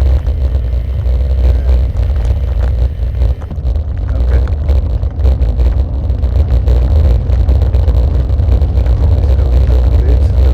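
Steady low rumble and dense rattling vibration of a vehicle riding over a rough, potholed road. The uploader is unsure whether the rattle comes from vibrating armrests or the DJI camera mount.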